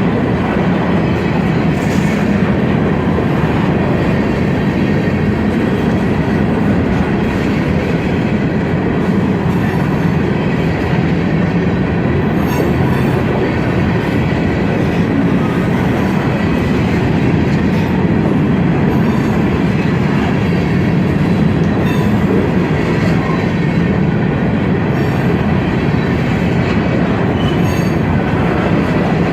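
Freight train cars rolling past in a steady, loud rumble, with occasional sharp clicks from the wheels and a faint thin squeal above.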